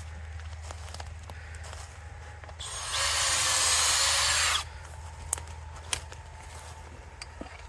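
Power drill boring a sap tap hole into a maple trunk: one steady two-second run that starts about two and a half seconds in and stops abruptly.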